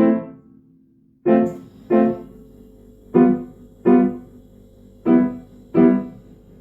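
Piano chords struck one at a time, mostly twice in a row, each ringing and fading, seven strikes in all. From about a second and a half in, a dehumidifier starts up, adding a steady hum under the piano.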